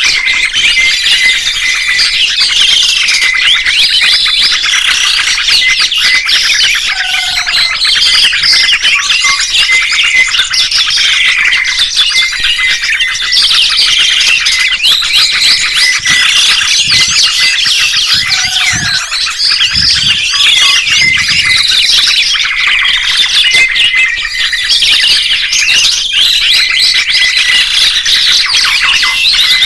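Songbirds singing continuously, a dense, loud chorus of overlapping chirps, trills and warbling phrases.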